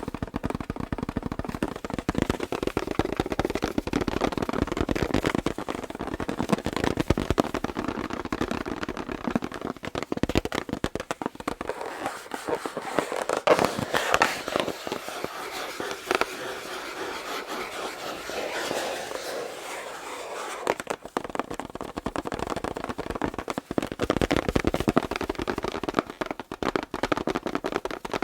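Fingers tapping and scratching on an inflated rubber balloon in dense, rapid clicks. Through a middle stretch the low thuds drop away and the sound turns lighter and thinner, then the fuller tapping returns.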